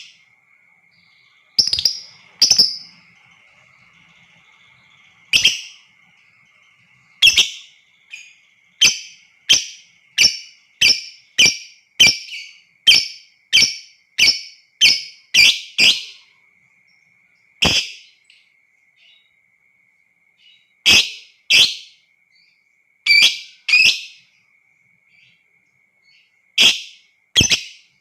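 Lovebirds giving short, sharp, shrill calls, single calls at first, then a quick run of about a dozen in succession, then spaced calls again, over a faint steady high-pitched tone.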